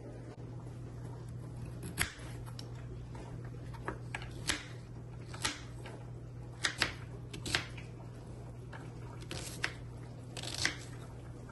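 About a dozen irregular light clicks and taps over a steady low hum.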